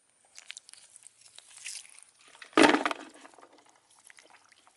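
A short splash of water about two and a half seconds in, among faint clicks and rustling.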